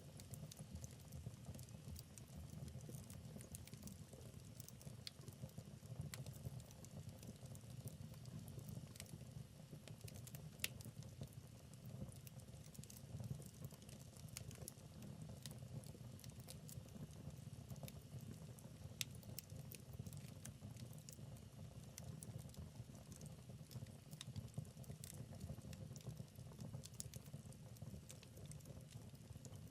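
Wood fire in a fireplace, crackling softly over a low steady rumble of the flames, with sharp pops now and then, a few louder ones scattered through.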